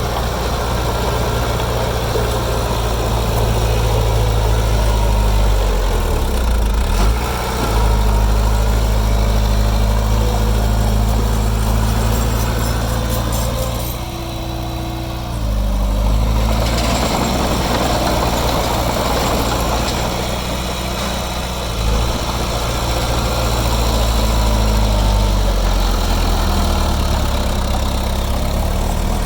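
Heavy diesel engine of earthmoving machinery running steadily, its note dipping for a moment about halfway through and then picking up again.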